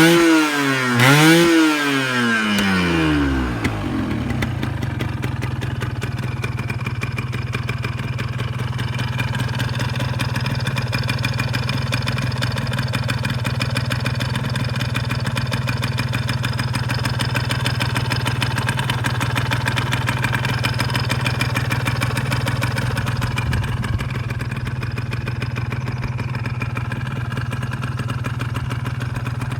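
Ya Speed 120cc motorcycle engine blipped twice, pitch rising and falling quickly each time, then settling into a steady idle.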